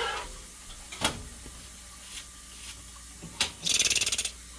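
Kitchen handling noises: a sharp knock about a second in, then a brief fast high rattle near the end, like something being shaken or dragged over a hard surface.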